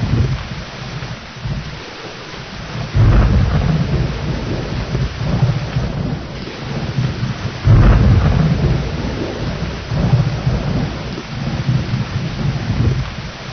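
Thunderstorm: steady rain with rolling thunder, two claps breaking out sharply about three seconds in and again near eight seconds, each rumbling on for a few seconds.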